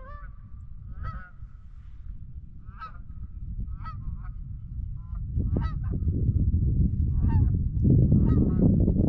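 Honking bird calls, about one a second, over a low rumble that swells in the second half and is loudest near the end.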